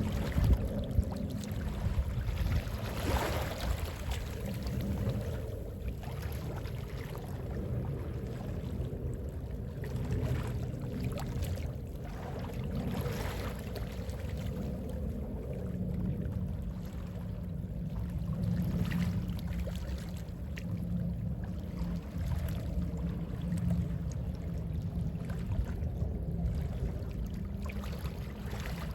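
Gentle sea waves washing in soft, repeated swells over a steady low rumble.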